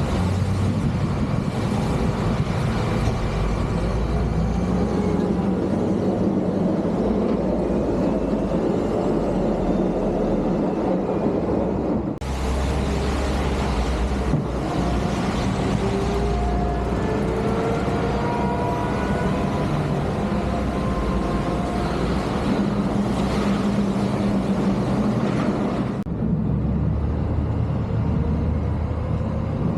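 Heavy snow-removal machinery and trucks running, a steady low engine rumble with faint rising whines partway through. The sound changes abruptly twice.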